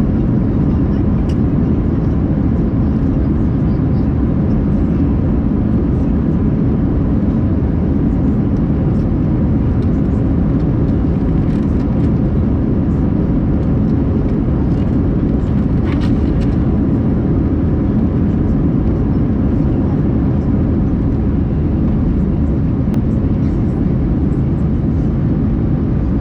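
Steady jet engine and airflow noise heard from inside the cabin of an Airbus A321-200 airliner, a deep even rumble with a small click about 16 seconds in.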